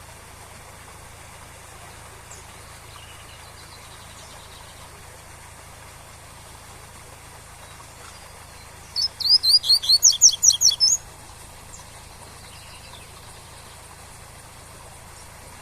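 A coleiro (double-collared seedeater) sings one quick phrase of its tui-tui song: about ten rapid, sharp notes over roughly two seconds, starting about nine seconds in. A steady waterfall hiss runs underneath.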